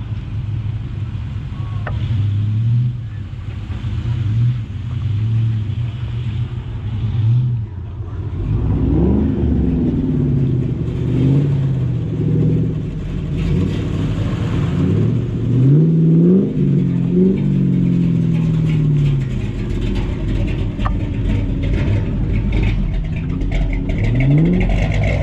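Classic cars' engines running as they roll in one after another at low speed, with the engine pitch rising several times as drivers accelerate, mostly in the middle and again near the end.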